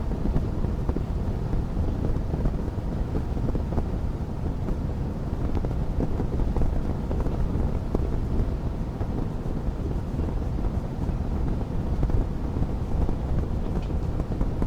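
Fireplace wood fire crackling, with frequent small pops over a steady low rumble.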